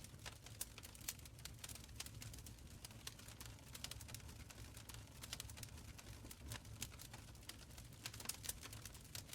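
Wood fire crackling in a stone fireplace: irregular sharp pops and snaps several times a second over a soft low rumble of the flames.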